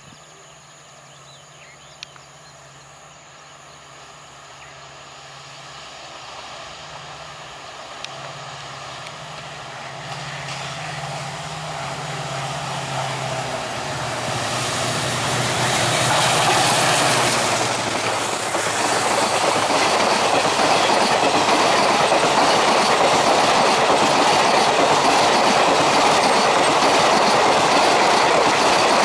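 Indian Railways WDG-4D diesel-electric locomotive, with an EMD two-stroke diesel engine, approaching at speed. Its low engine drone grows steadily louder until it passes about 17 seconds in. The passenger coaches then run past without stopping, their wheels on the rails making a loud, steady rushing clatter.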